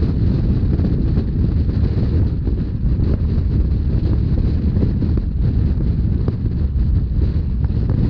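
Rhaetian Railway narrow-gauge train running steadily, a constant low rumble of the wheels on the rails with wind buffeting the microphone.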